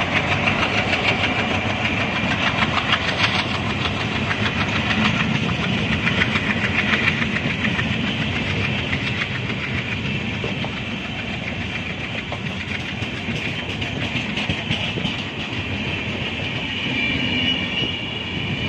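LHB passenger coaches rolling past at speed, their wheels clattering steadily over the rail joints.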